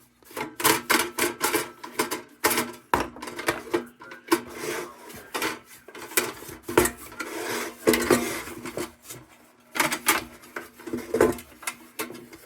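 Dietz Blizzard lantern's sheet metal being handled and brushed clean of steel wool dust: irregular clanks, rattles and scraping strokes on the metal.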